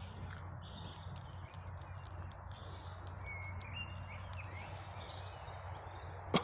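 Quiet woodland ambience with a steady low hum and faint hiss, a few short distant bird chirps in the middle, and one sharp click near the end.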